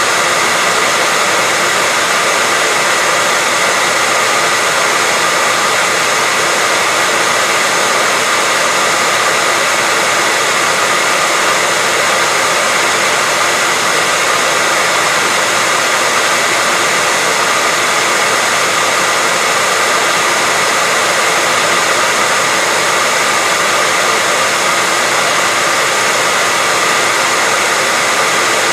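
Hair dryer running steadily: an even, unchanging blowing hiss with a faint whine, used as white noise to soothe a baby to sleep.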